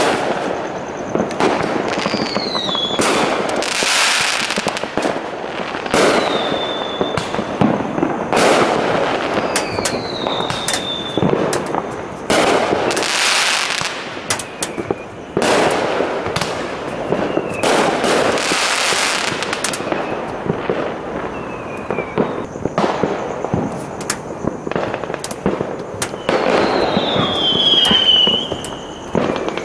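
Many backyard fireworks going off at once: a constant run of bangs and crackles, with several longer crackling bursts and a few whistles that slide down in pitch.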